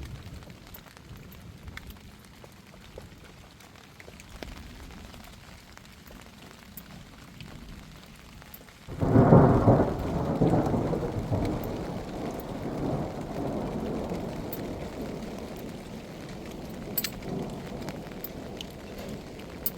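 Rain falling, with scattered drops ticking. About halfway through a sudden loud thunderclap breaks, and its low rumble fades slowly over the rest.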